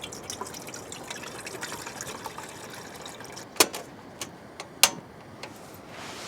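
Liquid trickling and dripping with many small crackling ticks, then two sharp clicks about a second apart, with a few fainter ones between.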